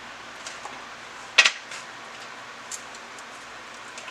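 Hands working slime: a few small clicks and one sharp double pop about a second and a half in, over a steady hiss.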